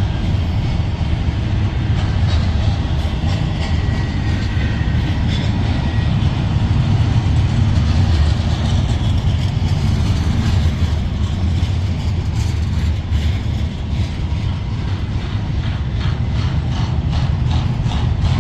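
A train rolling past: a steady low rumble of cars and wheels on the rails.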